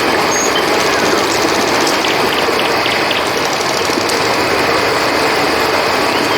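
Steady rushing of river water, with a brief run of cricket chirps about two seconds in.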